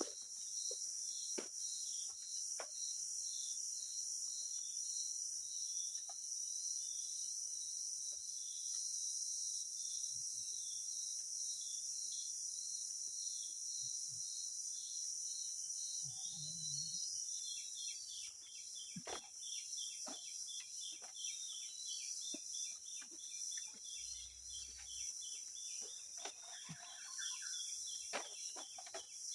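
Tropical forest insect chorus: a steady high-pitched hiss with a repeating chirp about twice a second, which quickens about two-thirds of the way through, and scattered light clicks.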